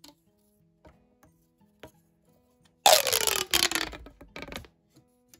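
Plastic pop tube being stretched, making one loud ratcheting sound about three seconds in that falls in pitch as it goes on for about a second and a half. A few faint clicks come before it.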